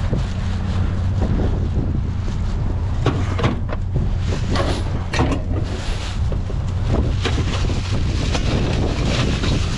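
Wind buffeting the microphone in a steady low rumble, with a scattering of short knocks and clatters of things being handled.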